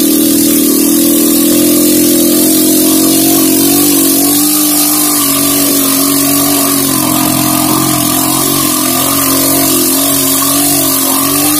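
Old motorcycle's engine running hard under load as it climbs a steep rocky hill track, its note holding fairly steady and sagging slightly about halfway through.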